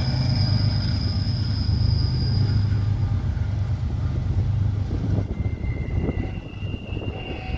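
BNSF freight train's diesel locomotives running, a steady low rumble that eases off about five seconds in. Near the end a thin, steady, distant horn note comes in, the train sounding its horn for a crossing.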